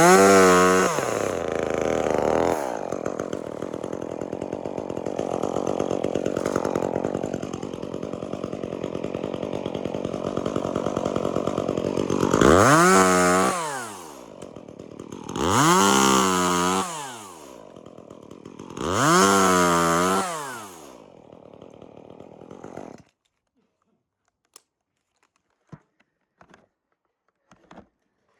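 Gas chainsaw engine revving up and dropping back, running steadily, then revved three times in quick succession before settling lower and stopping abruptly about 23 seconds in. A few faint clicks follow.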